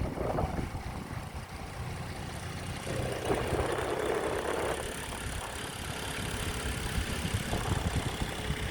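Small outboard motor on an inflatable dinghy running steadily under way, with a louder rushing stretch about three seconds in that lasts over a second.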